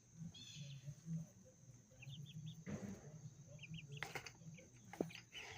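Young chicks peeping in short runs of three or four quick chirps, with a few sharp knocks and rustles in between.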